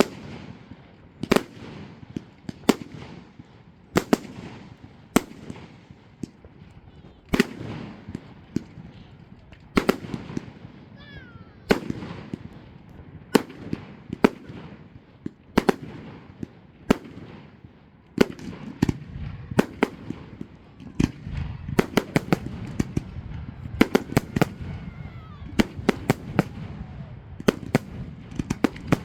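Fireworks display: aerial shells bursting with sharp bangs every second or two, thickening in the second half into rapid clusters of reports.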